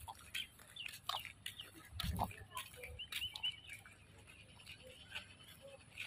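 Faint outdoor ambience with birds calling, including a quick run of four short high chirps about three seconds in, and a soft low thump about two seconds in.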